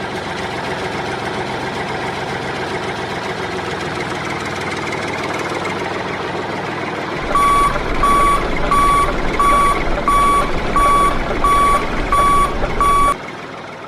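Mini tractor's engine running steadily. About seven seconds in, a reversing alarm starts beeping, about nine even beeps at roughly one and a half a second over a low hum, then stops.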